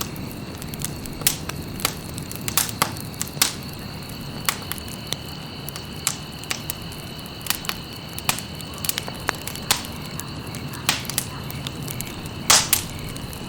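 Campfire crackling, with irregular sharp pops and cracks, the loudest a quick double pop near the end. A faint steady high trill runs beneath.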